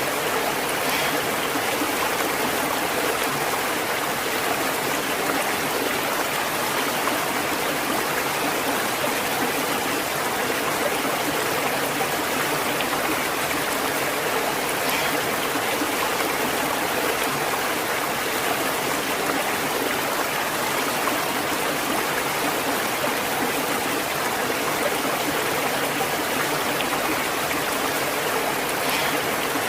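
Stream water flowing in a steady, even rush with no breaks or changes.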